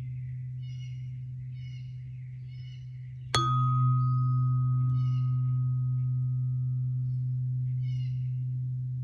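Solar plexus chakra tuning fork ringing with a low, steady hum. It is struck again a little over three seconds in: a bright ping fades away over about four seconds while the low tone swells and slowly dies down. Birds call in short chirps, roughly once a second.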